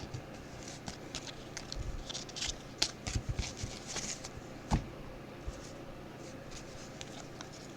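Trading cards being handled and flicked through: light, scattered ticks and papery swishes, with one sharper click about five seconds in, and fewer sounds in the last few seconds.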